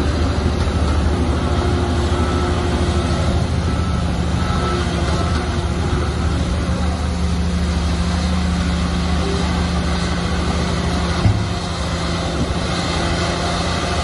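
Heavy diesel engine of earthmoving machinery running steadily at working revs, with a short knock about eleven seconds in, after which it runs a little quieter.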